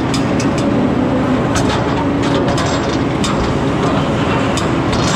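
Truck running and rolling over rough ground, a steady engine and road noise with frequent rattles and clanks from the body and load.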